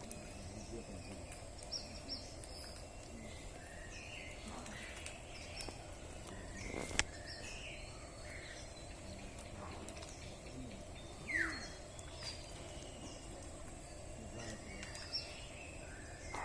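Birds chirping in short, scattered calls over a steady outdoor background noise. There is a sharp click about seven seconds in and a brief downward-sliding call about eleven seconds in.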